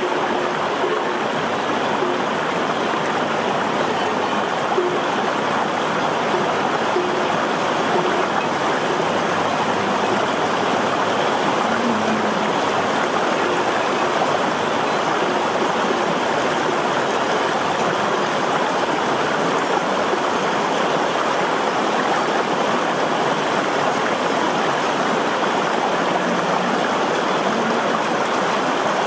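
Steady rushing water, like a stream.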